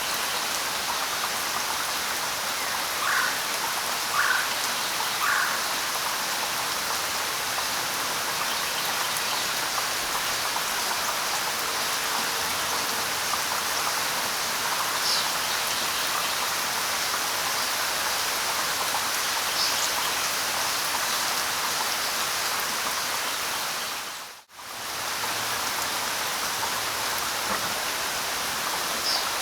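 Steady light rain hissing and pattering, with a few short bird calls: three in quick succession near the start and a couple of faint high chirps later. The rain drops out abruptly for a moment and comes straight back about 24 seconds in.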